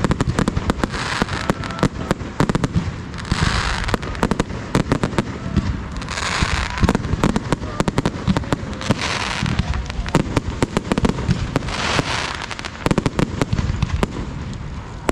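Fireworks display going off: a dense run of sharp bangs and crackles, with a crackling hiss swelling up every two to three seconds.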